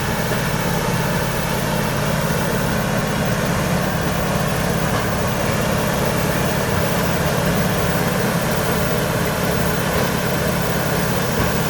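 Heavy diesel engine of road-repair machinery running steadily with a low, even drone.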